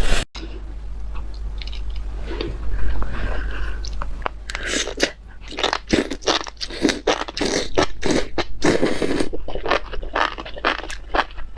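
Close-miked chewing of spicy enoki mushrooms, with crunchy, wet bites. The chewing is softer at first and becomes a steady run of loud chews, about two or three a second, from about halfway in. A low, steady hum sits underneath.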